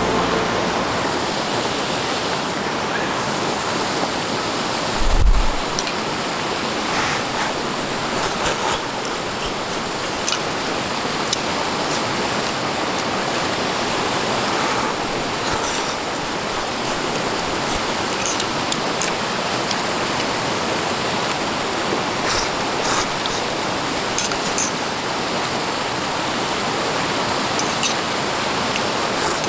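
River water rushing steadily, a constant hiss with a brief low thump about five seconds in and a few faint ticks.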